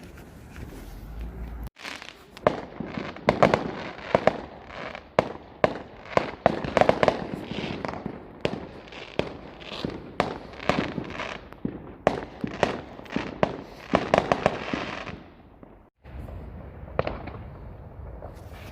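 Fireworks going off in rapid succession: many sharp bangs and crackles, several a second, starting abruptly about two seconds in and stopping abruptly near the end, followed by fainter pops.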